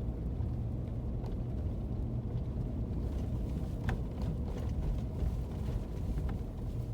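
Steady low rumble of a car's engine and tyres heard from inside the cabin while driving on a snowy road, with a few faint clicks.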